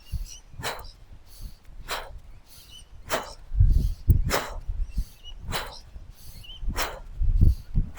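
Sharp swishes at a steady beat of about one a second, from a jumping workout, with low thumps of wind buffeting the microphone now and then.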